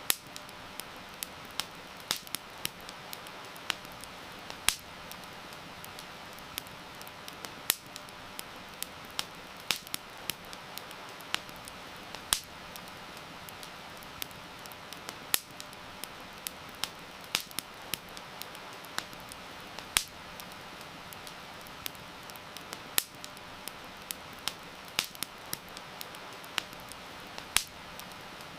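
Wood campfire crackling, with sharp irregular pops several times a second, some loud, over a steady hiss of heavy rain.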